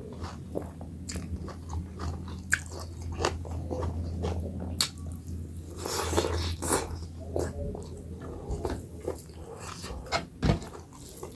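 Close-miked eating: a person chewing and biting a meal of millet dhido and chicken curry, with many short irregular mouth clicks.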